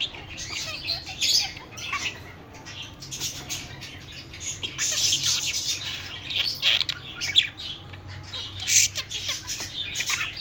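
Budgerigar chattering and warbling in quick, high-pitched bursts with squawky notes.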